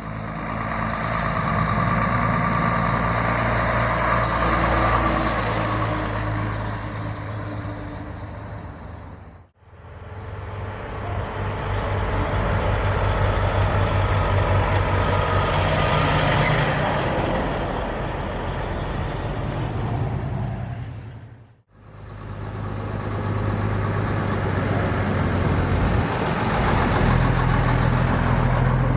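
Truck engines running as trucks move past, heard in three separate clips; each one swells and then fades.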